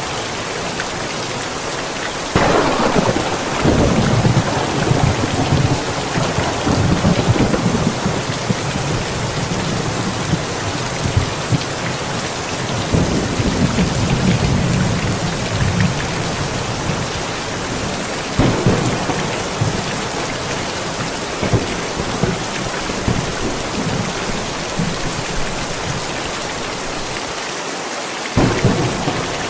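Steady rain with thunder. A sharp clap about two seconds in rolls into a long rumble, more rumbles follow around the middle, and another sharp clap comes near the end.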